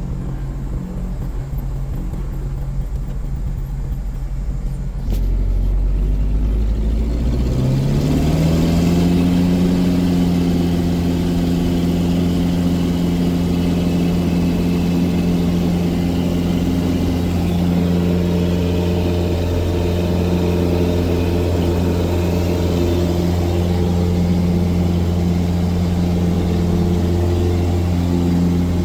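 Cessna 177 Cardinal's four-cylinder Lycoming engine and propeller running at low power, then throttled up about seven seconds in. The pitch rises over about a second and the engine then holds a steady high-power drone.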